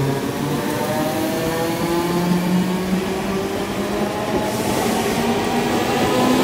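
Electric multiple unit train moving off, its traction motors whining in a stack of tones that slowly rise in pitch as it gathers speed, over a steady rumble of wheels on rail.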